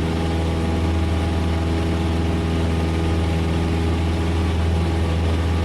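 Cessna 172S's four-cylinder Lycoming engine and propeller running steadily at takeoff power in the climb just after a soft-field takeoff. It is a constant drone with no change in pitch.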